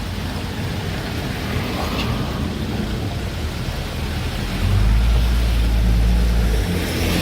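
Heavy construction machinery running with a deep, noisy diesel rumble, which swells louder for about two seconds past the middle.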